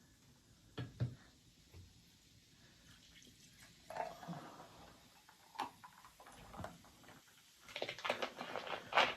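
Faint, scattered taps and knocks of dishes and tableware being handled at a meal table, a few single ones near the start and a denser cluster near the end.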